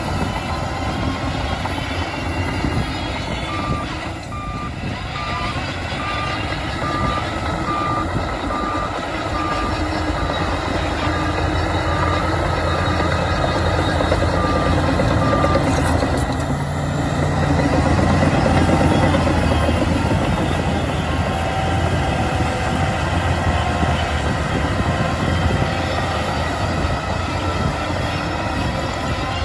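Heavy diesel engine of a Shantui bulldozer running, with a reversing alarm beeping evenly, a little more than once a second, from a few seconds in until about halfway. A little past halfway the engine grows louder for a few seconds.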